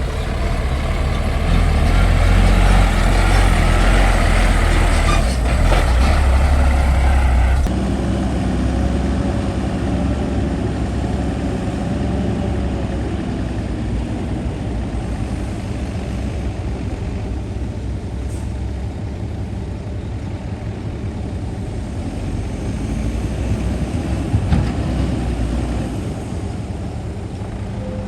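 Heavy diesel engines of earthmoving machinery running under load. About eight seconds in the sound changes abruptly to a steadier, quieter engine drone, and a single knock comes near the end.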